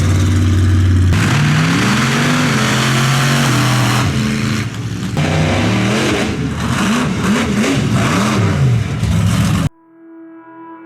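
Monster truck engine revving hard, its pitch climbing and falling over and over, until it cuts off suddenly near the end. A quiet, steady music tone follows.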